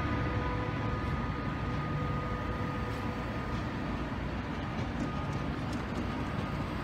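DB Intercity passenger coaches rolling slowly along the platform track: a steady rumble of wheels on rails, with a few light clicks near the end.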